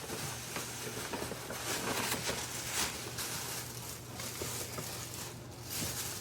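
Wrapping paper rustling and crinkling in irregular tearing strokes as a present is unwrapped.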